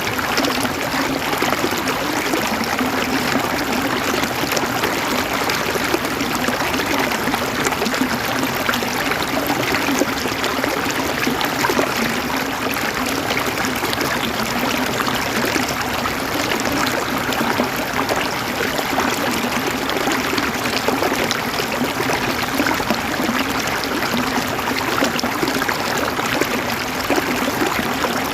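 River water flowing and gurgling over stones in a steady, dense rush.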